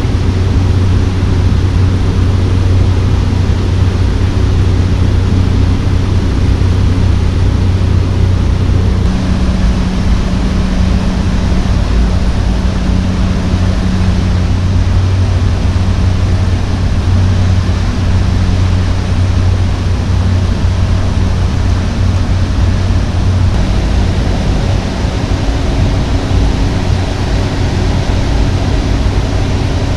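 Cockpit noise of a Cessna 208 Caravan's single Pratt & Whitney PT6A turboprop and propeller: a loud, steady drone with a low hum. Its tone shifts about a third of the way in and again later on.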